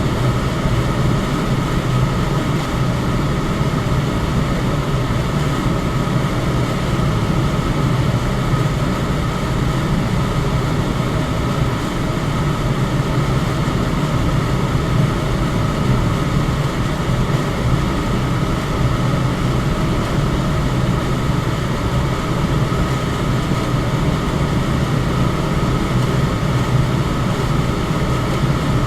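Electric fan running steadily: a constant rush of air with a low hum and a faint steady whine, unchanging throughout.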